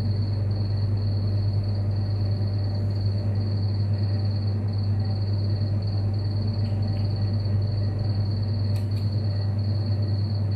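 Steady low drone of a car's engine and road noise heard inside the cabin by a dashcam, with a faint high-pitched tone pulsing about three times a second.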